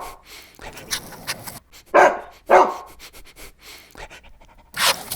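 A dog barking, with two loud barks about two seconds in, half a second apart, among quieter ones.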